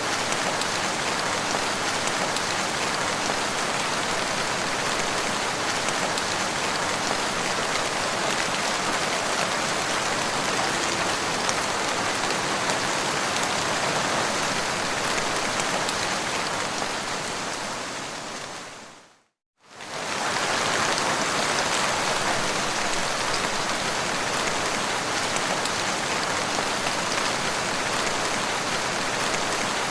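Gentle, steady rain falling, a dense even patter of drops. About two-thirds of the way through it fades out to a brief moment of silence, then comes straight back at full level.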